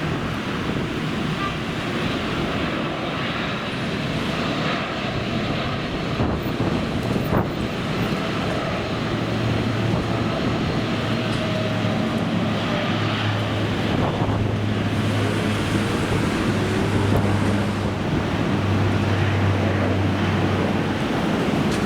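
Strong wind buffeting the microphone over the steady rumble of airliner engines. A low steady hum sets in about nine seconds in and runs on until near the end.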